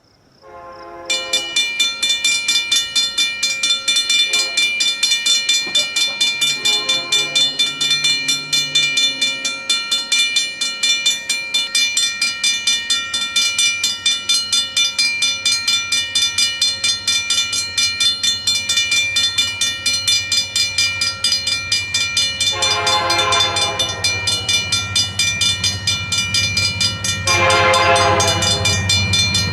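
Diesel locomotive hauling a tanker train. Its horn gives several short calls in the first few seconds and two longer blasts near the end, over a rhythmic wheel clatter, while the low engine rumble grows louder as it approaches.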